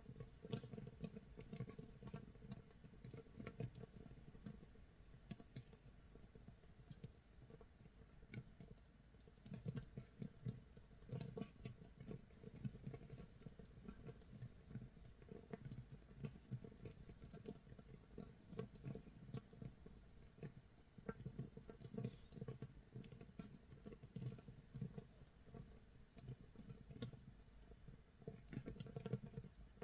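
Makgeolli starter mash fermenting in a jar, 24 hours in: bubbles of gas popping at the surface in a faint, irregular crackle and patter, like rain or burning firewood.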